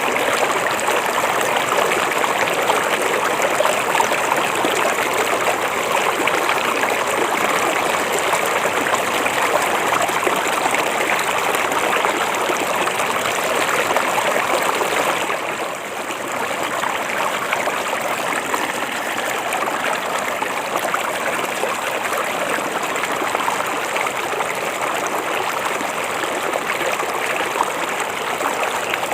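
A river flowing steadily with a continuous rushing of water, dipping briefly in level about halfway through.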